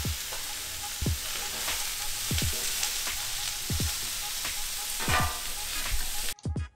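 Vegetables, among them frozen broccoli, sizzling on the hot steel top of a Pit Boss four-burner griddle. A metal spatula scrapes and turns them about five times, roughly once a second. The sizzle cuts off suddenly near the end.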